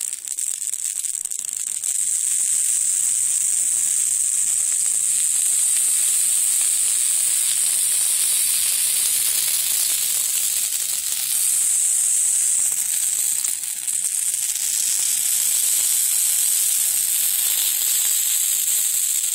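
Campfire burning a freshly added evergreen tree and branches, with a loud, steady, high hiss and fine crackling throughout, as the green, sappy wood burns.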